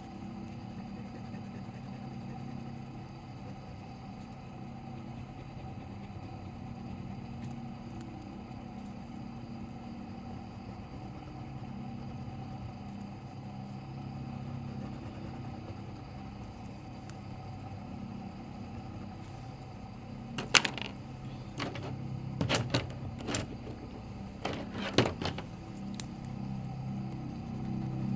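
A steady low mechanical hum, with a short run of sharp taps and clicks about three-quarters of the way through.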